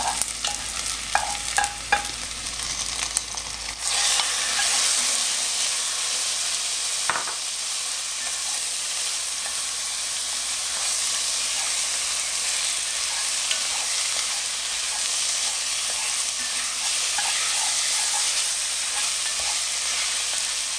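Marinated chicken pieces and onions sizzling in hot oil as they are stir-fried in an enamelled pot with a wooden spoon, the chicken browning until it changes colour. A few light clicks come first, then about four seconds in the sizzle grows louder and stays steady, with a single knock of the spoon against the pot near seven seconds.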